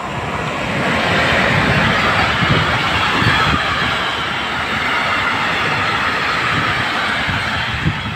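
Freight train of tank wagons hauled by a Traxx 3 electric locomotive running through a station without stopping. The wheels on the rails make a loud, steady rushing noise with an irregular low clatter, swelling about a second in and then holding.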